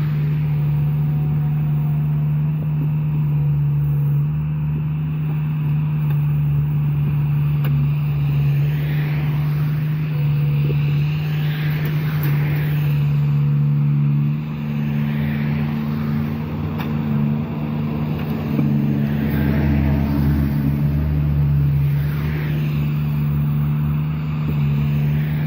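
Diesel engine of heavy road-paving machinery running steadily at constant speed, a deep even hum.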